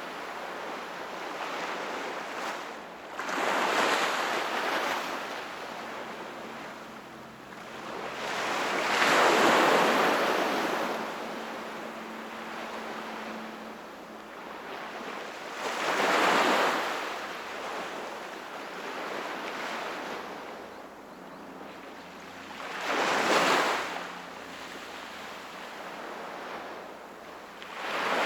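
Sea waves breaking on a shore: four swells of surf, about one every six to seven seconds, each rising to a hissing crash and draining back into a softer wash.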